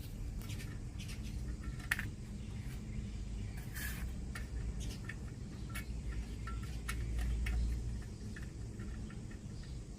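Scattered small clicks and scrapes of parts being handled, over a steady low hum.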